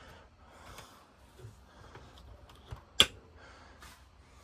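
Camper fridge door latching shut with one sharp click about three seconds in, over faint room tone.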